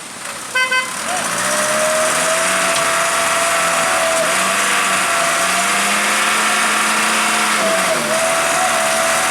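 Two short horn beeps, then a heavy truck's diesel engine revving up and held at high revs under load for several seconds, easing off briefly near the end before picking up again.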